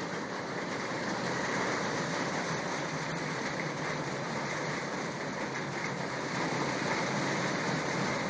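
Hailstorm: hail and heavy rain pouring down in a steady, dense rush of noise.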